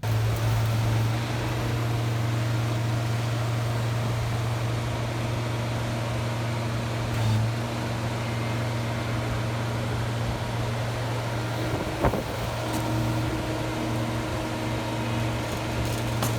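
An engine running steadily with an even low hum. One sharp knock about twelve seconds in.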